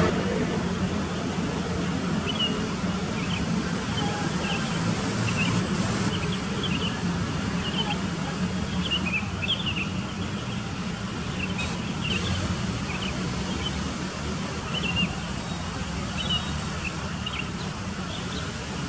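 Many small birds chirping in short, scattered calls, over a steady low rumble.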